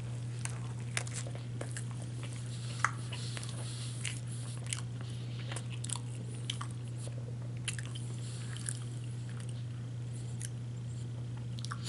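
A man chewing a mouthful of KFC chicken wrap close to the microphone, with scattered soft smacks and clicks of the mouth throughout.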